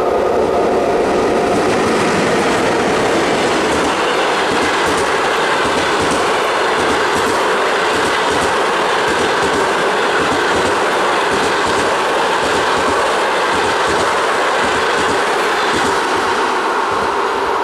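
A passenger train passing close by at speed: loud, steady rolling noise from the coaches, with the wheels clattering over the rail joints.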